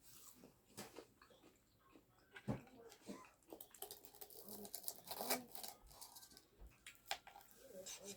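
Soft, irregular eating sounds: chewing and small mouth clicks with scattered light ticks.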